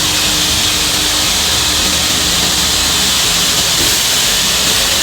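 Automatic frame-moulding cutting saw running, its spinning saw blade making a steady, loud hiss-like whir during a cutting cycle.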